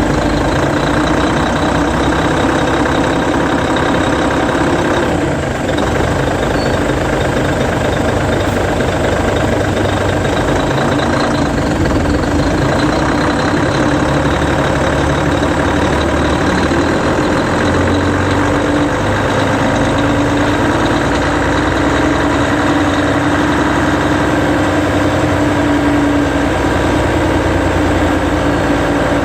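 Hino Selega coach's E13C 12.9-litre inline-six diesel running steadily at low revs while the coach moves slowly, with a brief dip in level about five seconds in.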